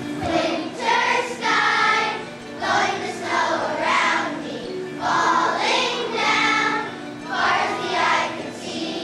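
A choir of second- and third-grade children singing a song in short phrases of about a second each, over an instrumental accompaniment.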